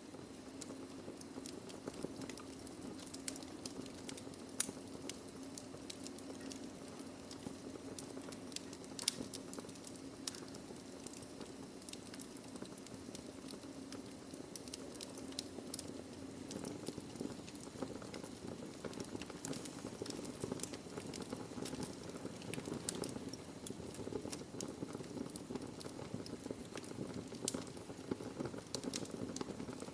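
Wood fire burning in a fireplace: irregular crackling, with many small sharp pops and snaps of the burning logs over a low, steady rumble. The loudest pop comes about four and a half seconds in.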